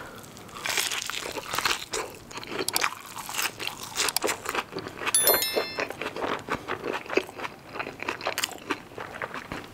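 Close-miked crunching and chewing of a battered onion ring coated in sauce, with wet mouth sounds and finger licking. A brief electronic chime sounds about five seconds in.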